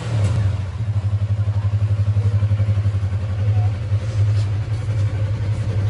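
Motorcycle engine running steadily with a deep, rapidly pulsing note that starts abruptly just before and holds at an even level.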